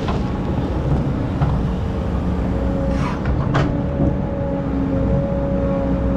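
Excavator's diesel engine running steadily while digging sand, with two short knocks a little past the middle.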